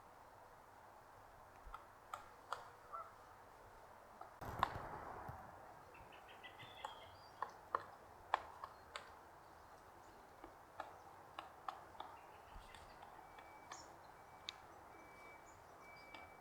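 Pileated woodpecker pecking and chiselling into wood to make a hole: irregular single sharp strikes, one louder knock about four and a half seconds in, and a brief bird call around seven seconds in.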